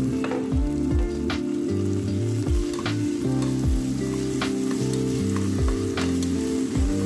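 Shrimp paste, onion and garlic sizzling in hot oil in an aluminium pot while being stirred with a spatula, with sharp scrapes or knocks about every second and a half. Background music with a steady low beat runs underneath.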